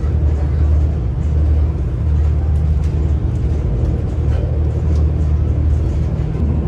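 Steady low drone and rumble of a V/Line VLocity diesel railcar running at speed, heard from inside the carriage: underfloor diesel engine hum with wheel and track noise.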